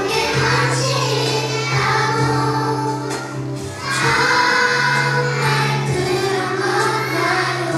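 A song with a group of young children singing together over musical accompaniment, with steady held bass notes underneath.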